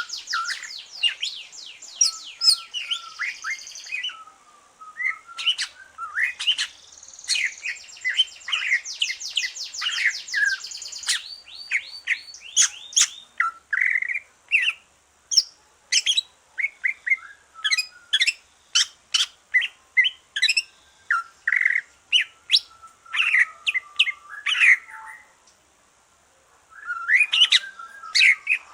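Greater green leafbird (cucak ijo) singing a varied, fast song of rapid trills, chirps and whistled notes, with a short pause near the end. The bird has just finished its moult and is back in song.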